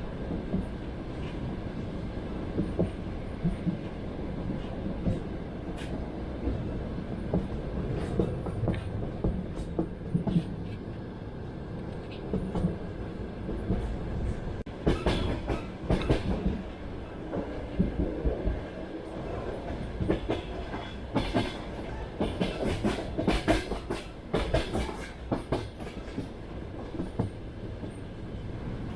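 Passenger train carriage running on rails: a steady low rumble, with clusters of sharp clickety-clack as the wheels cross rail joints, strongest about halfway through and again a little later.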